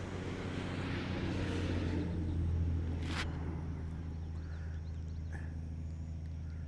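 A vehicle passing on the road, its noise swelling to a peak a couple of seconds in and then easing away over a steady low hum, with one sharp click just after the peak.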